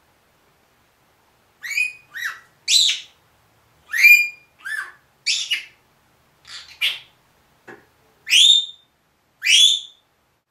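Senegal parrot giving a string of about ten short, loud whistled calls, each a quick sweep in pitch, starting about a second and a half in; the last two are longer rising whistles.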